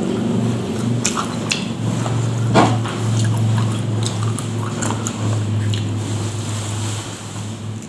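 Close-up mouth sounds of a man chewing rice and grilled catfish by hand: wet chewing and lip smacks, with one louder smack about two and a half seconds in. A low steady hum runs under it, breaking briefly and stopping near the end.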